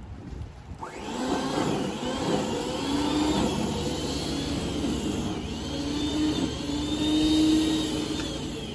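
A motor starts up about a second in and runs steadily, with a whine that wavers slightly in pitch.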